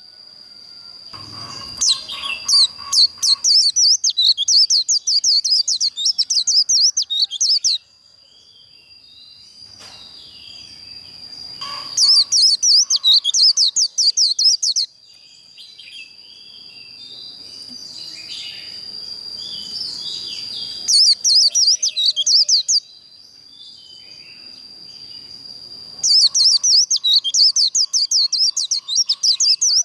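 White-eye singing its fast trilled 'líu' fighting song in four loud bursts of very rapid, high notes, with softer twittering between them. A thin steady high tone runs underneath.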